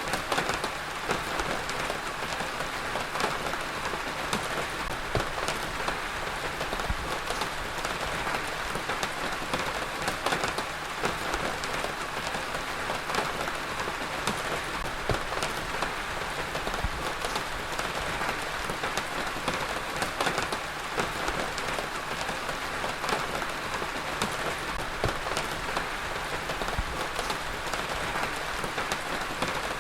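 Heavy rain falling steadily on a surface, a dense, even patter of many drops with no change in intensity.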